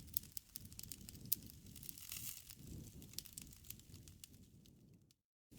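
Wood campfire crackling: scattered small pops and snaps over a soft low rumble. The sound cuts out to complete silence for a moment near the end.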